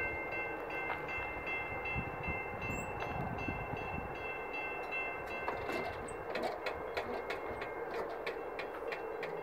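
Via Rail passenger train passing in the distance: a steady rumble with irregular wheel clicks in the second half, while a level-crossing bell rings in the first few seconds.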